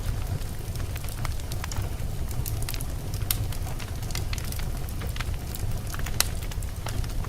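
Wood fire of burning logs in a fireplace crackling: a steady low rumble of flame with frequent sharp, irregular pops and snaps.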